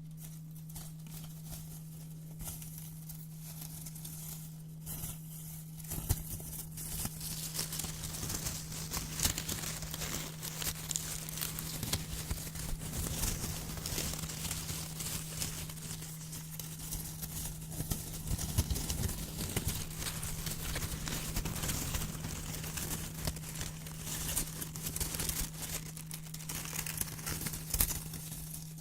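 Brown paper crinkling and being cut with scissors close to the microphone: dense crackly snips and rustles, sparse at first and busier from about six seconds in, over a steady low hum.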